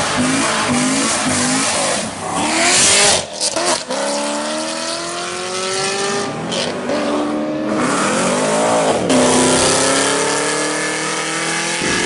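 Chevrolet Corvette V8 accelerating hard away, engine pitch climbing then dropping back at each upshift, several times over. A loud burst of noise comes about three seconds in.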